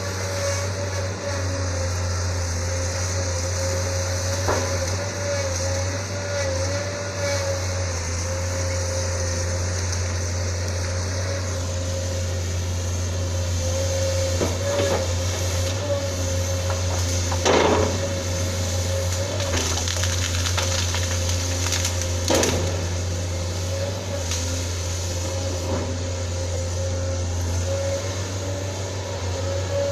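Sunward SWE210 excavator's Isuzu 6BG1 six-cylinder diesel running steadily under work, with a thin whine that wavers slightly in pitch. A few sharp knocks come through, around five, eighteen and twenty-two seconds in.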